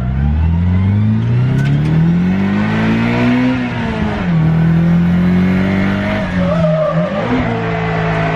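Nissan S13's SR20DET turbocharged four-cylinder engine under hard throttle. The revs climb for about three and a half seconds, drop sharply around four seconds in, hold steady, dip briefly near the end, then pick back up.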